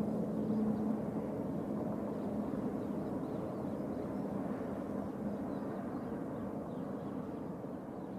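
Aircraft engines rumbling at a distance, a steady low noise with a hum in it that slowly fades.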